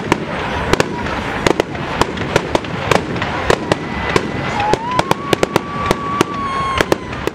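Firework display: a dense run of sharp bangs and crackles from bursting shells over a continuous rumble. About four and a half seconds in, a high whistle rises briefly and then holds steady for about two seconds.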